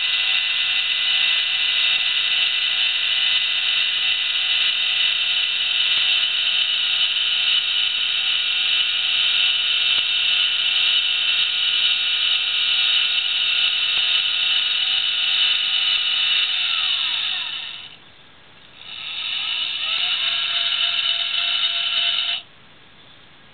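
Celestron CG-5 equatorial mount's motor drive slewing at its top rate with a loud, steady high whine. About 17 seconds in the whine falls in pitch and stops, starts again with a rising pitch a second or so later, then cuts off suddenly: the mount stalling mid-slew, a fault that shows only at slew rate 9.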